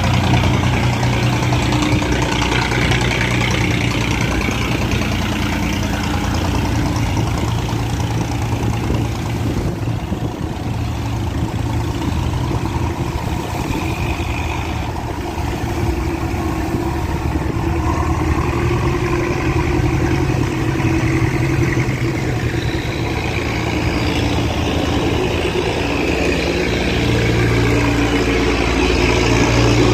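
Boat engines running steadily, with several low engine tones overlapping over a broad rushing noise.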